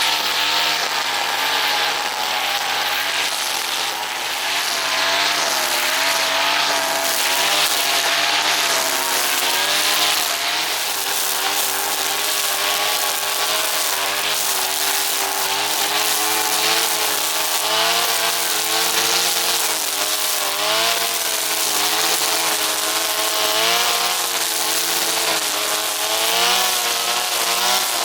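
Brushcutter engine running at high revs while cutting grass, its pitch wavering up and down continuously.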